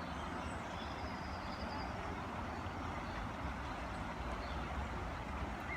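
Steady outdoor background noise with a low rumble, and a faint, thin high bird call about half a second in.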